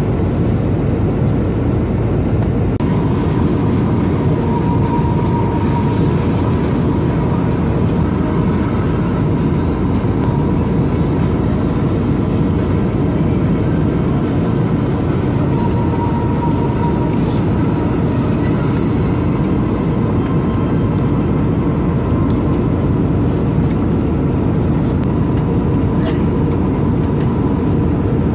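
Steady engine and airflow roar heard inside the cabin of an Airbus A320neo airliner in flight, with a faint steady whine coming in a few seconds in.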